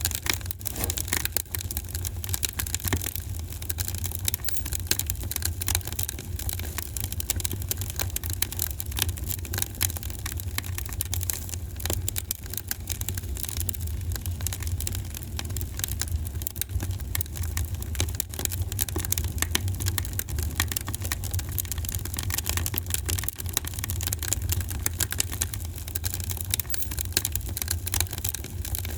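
Wood fire in a fireplace crackling, with constant small irregular pops and snaps over a steady low rumble.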